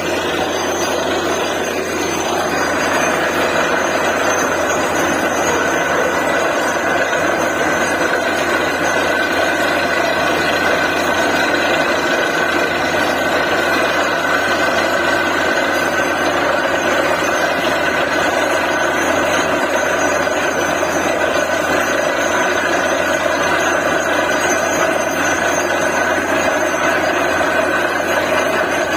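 Borewell drilling rig running steadily: engine and machinery noise with a constant whine.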